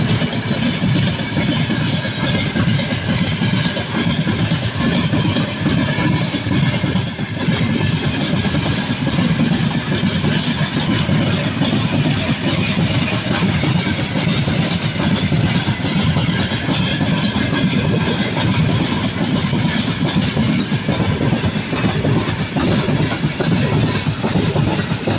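Freight train of open-top gondola wagons rolling past: a steady, loud rumble of steel wheels on the rails.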